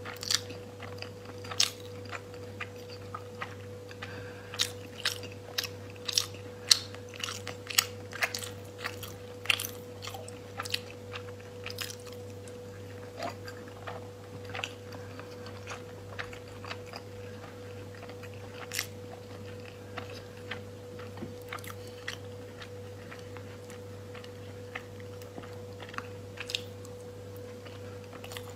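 A person chewing food close to the microphone, with many sharp wet mouth clicks, thick in the first half and sparser later. A faint steady hum runs underneath.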